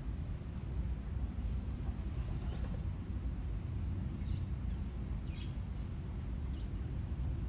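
A steady low outdoor rumble with a few short, faint high bird chirps about four to seven seconds in.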